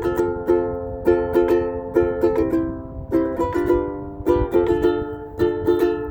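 Strummed acoustic string instrument playing a steady chord accompaniment, about two to three strums a second, with no singing. A low rumble of wind on the microphone runs underneath.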